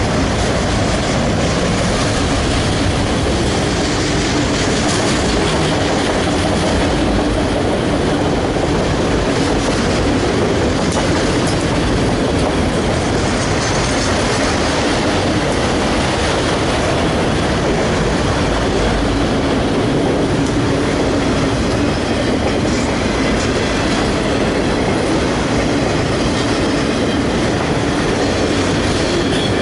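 CN freight train's cars rolling past close by: a loud, steady noise of steel wheels running on the rails.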